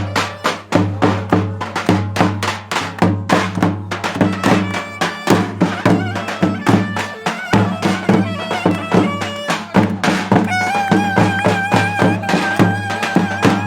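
Turkish folk dance music (an oyun havası) with a fast, steady drum beat under a melody; about ten and a half seconds in, a held, wavering melody line comes in over the beat.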